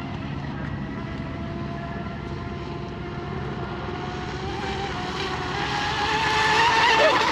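Electric RC hydroplane's 3660 brushless motor and propeller whining as the boat runs across the water, the whine rising in pitch and getting louder over the last couple of seconds.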